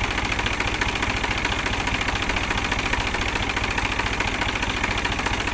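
New Holland 47 HP tractor's diesel engine idling steadily.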